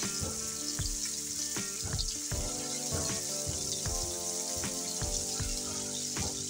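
Hot oil sizzling steadily in a shallow frying pan as beef shami kababs fry in it.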